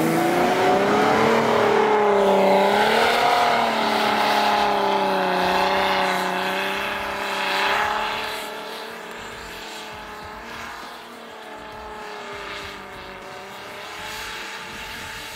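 Jeep Wrangler's engine pulling steadily under load as the vehicle drives off, one even drone that rises a little in pitch in the first couple of seconds, then fades noticeably from about eight seconds in as it moves away.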